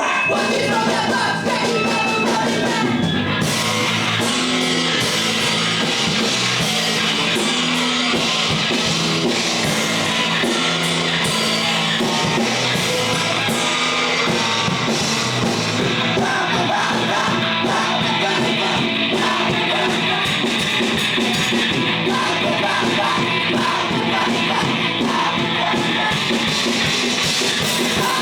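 Live punk rock band playing loud and fast: distorted electric guitars, bass and drum kit, with some shouted singing.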